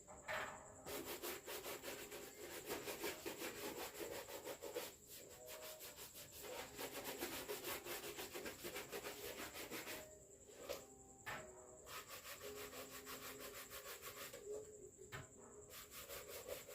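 A school shoe being rubbed in quick back-and-forth strokes while it is cleaned and polished with Kiwi shoe polish. The strokes break off briefly twice.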